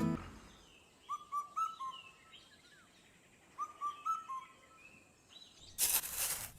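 Bird calls: two short phrases of quick whistled chirps, each about four notes, a couple of seconds apart. Near the end a loud burst of hissing noise comes in.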